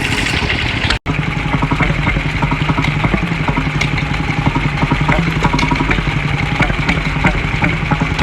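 An engine running steadily with a fast, even beat and light ticking clatter. The sound cuts out for an instant about a second in, then carries on with an engine running at the same steady pace.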